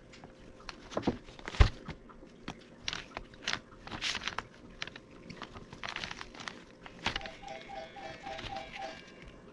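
Irregular clicks and knocks of hand work on a CV axle and its boot, parts and tools being handled, with one sharp knock about a second and a half in. Near the end, a short run of evenly spaced pitched pulses sounds over the handling.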